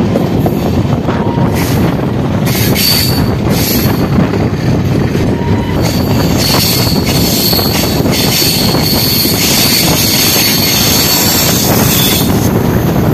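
A train of LHB passenger coaches running at speed, heard at an open coach door: a loud, steady rumble of wheels on rail and rushing air. A high, thin wheel squeal comes in briefly about three seconds in, then again from about six seconds until near the end, as the train takes a curve.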